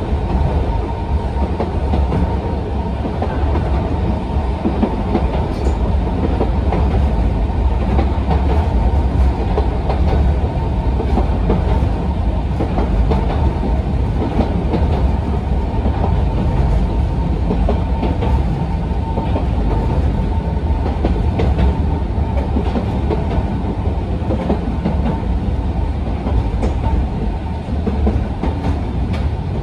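Cabin running noise of a Sangi Railway Hokusei Line narrow-gauge electric railcar (Mo 275) under way: a steady low rumble of wheels on rail and the car body, with a few faint clicks.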